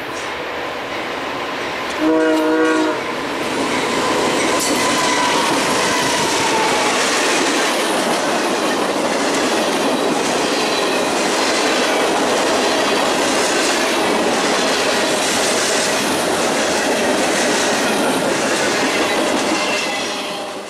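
Freight train passing close at speed: one short horn blast about two seconds in, then the steady rush and clatter of wheels over the rails as the cars go by.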